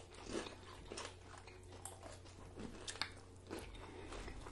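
Close-miked eating sounds from two people working through burrito bowls and tortilla chips: quiet chewing and lip smacking, with scattered short clicks and a few soft crunches.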